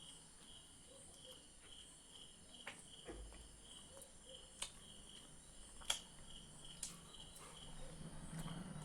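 Faint, steady chirping of crickets, pulsing several times a second, with a handful of sharp clicks scattered through, the loudest about six seconds in.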